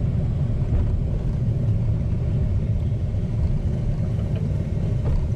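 Steady low rumble of a moving vehicle heard from inside its cabin: engine and road noise with no change in pace.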